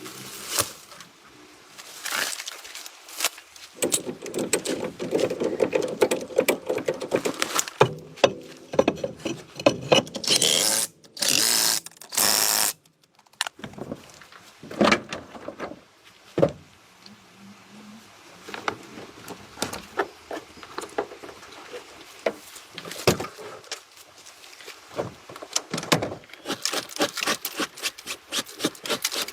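Workshop clatter: many short metallic clicks and knocks of tools being handled, with two brief hissing bursts near the middle.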